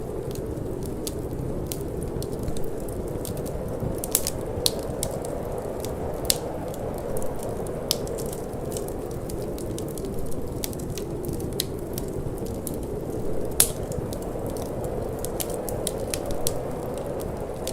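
Wood fire crackling, with irregular sharp pops and snaps, the loudest about 4, 6 and 13.5 seconds in, over a steady low rush of wind.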